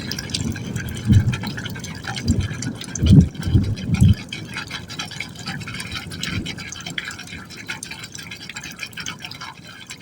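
Water falling into a pipe hole and splashing inside it. Irregular deep, hollow surges come in the first four seconds, the loudest a little after three seconds in, then settle into a lighter, steady splashing.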